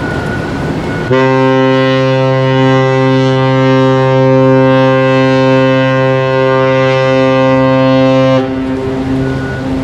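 Ship's whistle of the transport ship JS Osumi sounding one long, steady, deep blast of about seven seconds. It starts abruptly about a second in and cuts off, leaving a fainter tone behind. A single prolonged blast is the signal of a ship leaving its berth.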